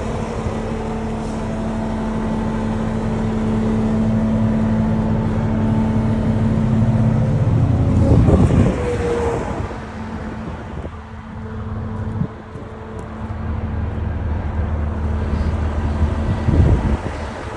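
Caterpillar 3406B diesel engine of a 1991 International Eagle dump truck running steadily. About eight seconds in there is a loud surge, after which it runs on at a lower pitch.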